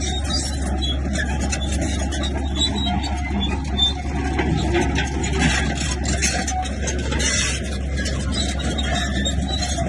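Heavy diesel engine of a working bulldozer running steadily under load, with short high squeaks and scattered clanks from the machine's tracks.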